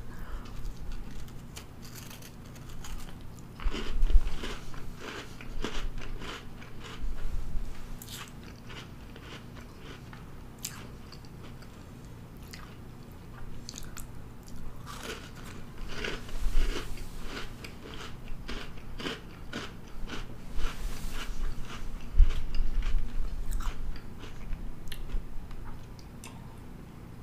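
Close-up eating sounds: a Cinnamon Toast Crunch cookie being bitten and chewed, crisp crunches coming in bunches with quieter chewing in between.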